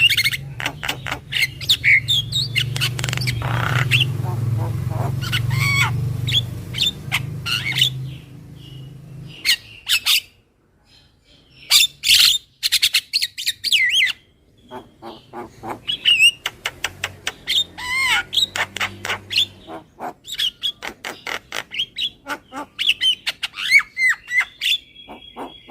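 Javan myna (jalak kebo) calling: fast harsh chattering notes mixed with short sliding whistles, in repeated runs with brief breaks. A low hum sits under the first nine seconds or so.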